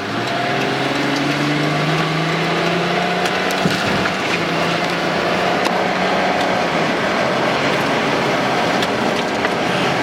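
Car pulling away and accelerating: the engine's pitch rises over the first few seconds, then heavy road and wind noise fills in. A few light clicks and knocks sound through it.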